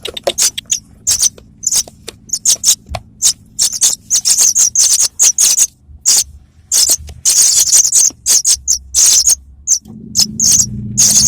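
Young apung tanah, a pipit sold as local branjangan, calling: rapid runs of short, shrill chirps with a few longer buzzy notes, with a low hum coming in near the end.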